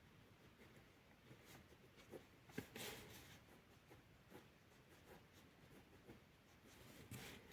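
Faint scratching of a pen on paper as lines are drawn: short strokes, a sharp tick about two and a half seconds in, and longer scratches just after it and near the end.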